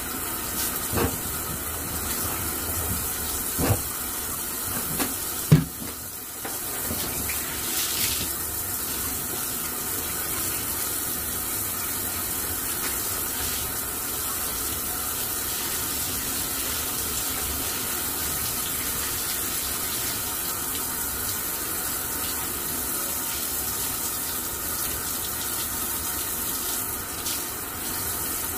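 Water running steadily from a tap or hose during a dog's bath, with a few knocks in the first six seconds, the loudest about five and a half seconds in.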